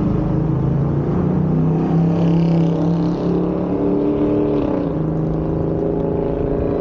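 Onewheel Pint electric board's hub motor whining steadily over a low rushing noise, its pitch sliding down a little under five seconds in as the board slows.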